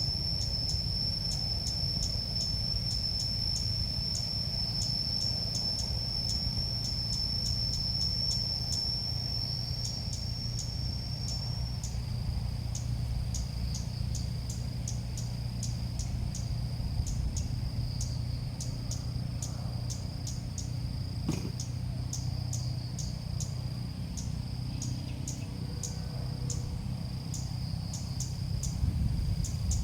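Continuous high-pitched insect-like chirring made of a steady thin tone with rapid, regular ticks. The pitch steps slightly lower about twelve seconds in, over a low steady hum.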